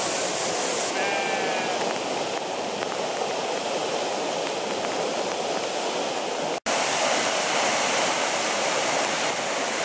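Waterfall rushing, a steady, even roar of falling water. There is a brief high-pitched call about a second in, and the sound cuts out for an instant about two-thirds of the way through.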